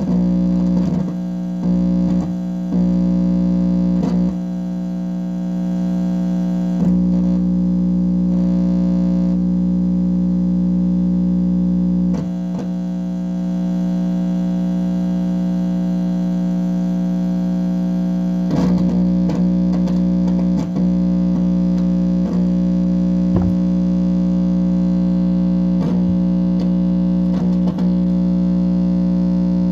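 Steady, loud electronic buzz with a stack of overtones, played through an amplifier speaker, with scattered crackles and a few brief dips in level. The owner takes it for the microwave receiver picking up directed-energy signals.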